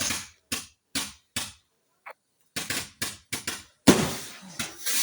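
Consumer firework cake, a 150-shot barrage, firing a rapid, uneven string of sharp bangs: about a dozen shots with a short pause about two seconds in and a louder bang near the end.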